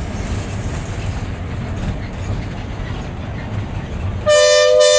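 A moving bus's engine and road noise rumble steadily inside the cab. Near the end, a two-tone vehicle horn sounds once, loudly, for under a second.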